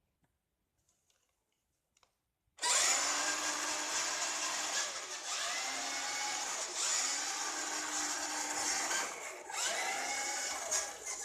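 A few faint clicks, then the electric motor and gear drive of a vintage Tandy Wild Ranger RC monster truck start suddenly about two and a half seconds in. It runs with a loud whine that rises in pitch again and again as the throttle is worked.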